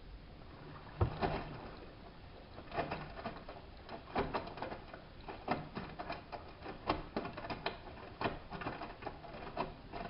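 Drum of a hanseatic HWM814A3D front-loading washing machine turning in the wash phase. Wet laundry and water slosh and slap irregularly inside it. The tumbling starts about a second in and stops as the drum comes to rest near the end.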